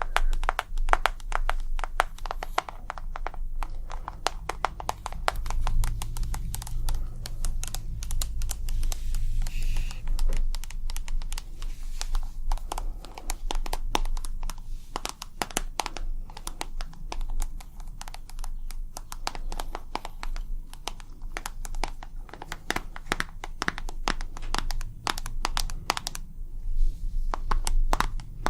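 ASMR tapping: rapid, irregular taps and clicks on hard objects, several a second, with some crinkling in between.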